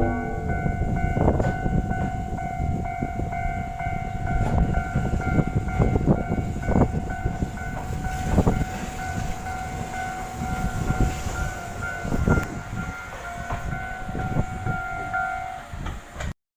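Choshi Electric Railway train running on the track: a steady low rumble with a steady high whine and scattered clacks of the wheels. The sound cuts off shortly before the end.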